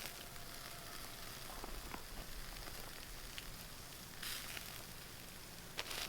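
Food sizzling over a cooking fire: a steady hiss with scattered small pops and crackles, swelling briefly a couple of times.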